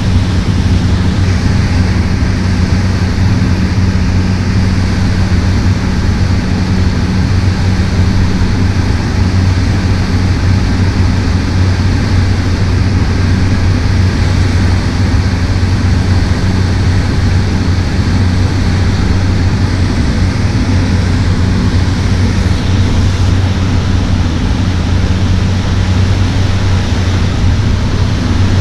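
Cessna 208 Caravan's Pratt & Whitney PT6A turboprop and propeller running steadily in flight: a constant low propeller hum over a loud, even rush of engine and air noise.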